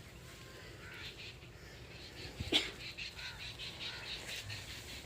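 Faint birds chirping, with one short, sharper call about two and a half seconds in.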